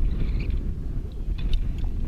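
Wind buffeting the microphone, a loud, uneven low rumble, with a few light clicks and taps over it.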